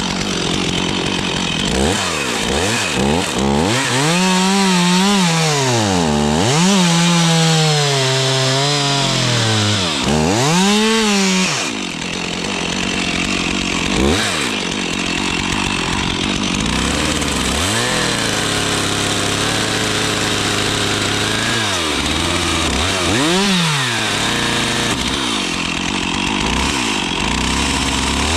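Stihl two-stroke chainsaw cutting wood, its engine pitch rising and falling repeatedly as the throttle is worked and the saw comes under load, with a steadier stretch of lower pitch partway through.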